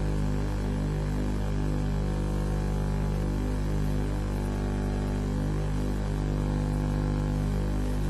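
Steady electrical mains hum and buzz on the webcam feed's audio, with a slowly wavering drone.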